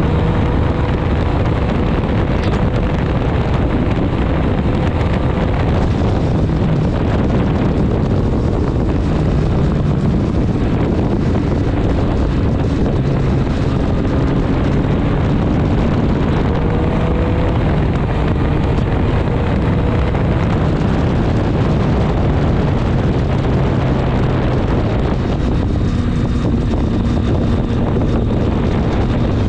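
Triumph Street Triple 765 S's three-cylinder engine running while the bike is ridden along, its note shifting up and down in pitch now and then. Wind rushes over the microphone.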